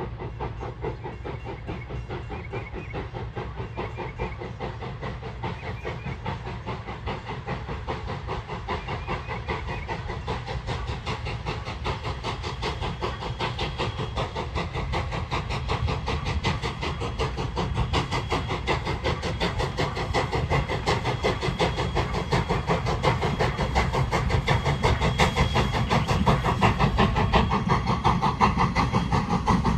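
A train approaching, its steady rapid pulsing sound and hiss growing gradually louder.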